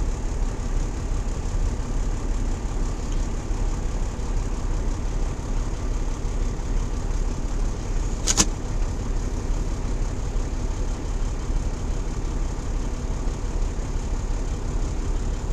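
Peterbilt 379 truck's diesel engine running steadily with a low rumble. One sharp click about eight seconds in.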